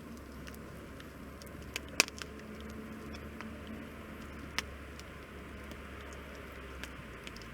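Burning firewood crackling, with scattered sharp pops: the loudest about two seconds in, another a little past the middle. A low steady rumble runs underneath.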